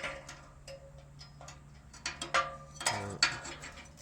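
Metal tools and parts being handled: irregular metallic clinks and knocks, a few ringing briefly, the loudest about two to three seconds in, over a low steady hum.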